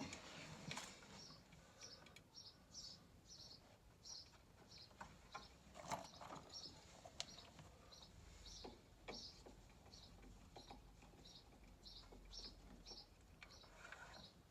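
A small bird chirping over and over, about two to three short high chirps a second, with a few light clicks and taps from parts being handled.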